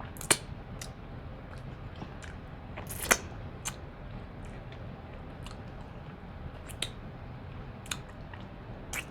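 Close-up eating sounds from a seafood boil: chewing with scattered sharp, wet mouth clicks and smacks. The loudest come about a third of a second in and again about three seconds in.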